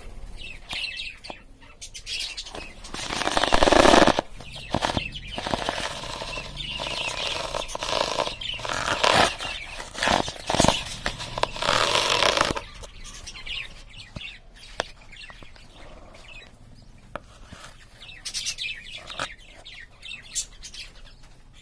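Cage birds fluttering their wings and chirping. A loud stretch of rustling, flapping noise fills the first half, and after that there are scattered, quieter chirps.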